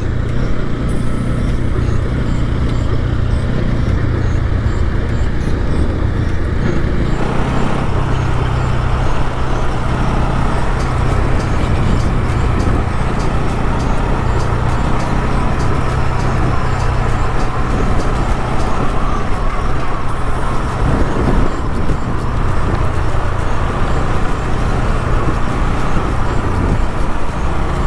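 Motorcycle engine running steadily while riding, with heavy wind and road noise on the mic; the wind noise grows louder about seven seconds in as the speed picks up.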